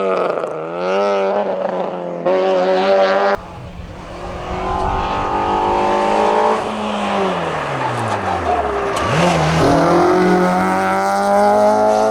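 Citroën Saxo VTS hillclimb cars' four-cylinder engines at full throttle, revving up through the gears with quick lifts and downshifts. The sound cuts off abruptly about three seconds in and another car takes over. Its engine pitch climbs, falls away in a long glide through the middle, then rises again and holds high near the end.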